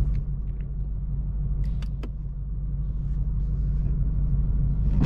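2024 Ford Mustang GT's stock 5.0-litre V8 with active exhaust, a low steady rumble at low revs that swells slightly toward the end. A few light clicks come about two seconds in.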